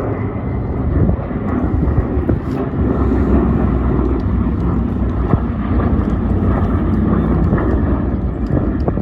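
Piston-engined propeller aircraft running steadily, with no clear rise or fall in level.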